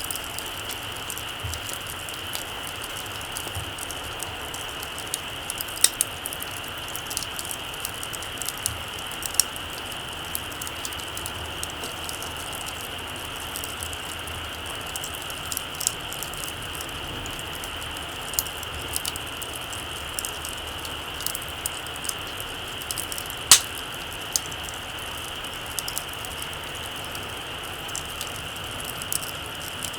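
Small campfire crackling: scattered sharp pops and snaps at irregular intervals, one louder pop about two-thirds of the way through, over a steady high hiss.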